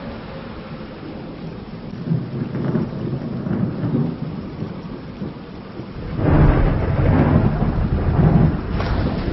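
Thunder rumbling low over steady rain, with a louder roll of thunder building about six seconds in and lasting nearly three seconds.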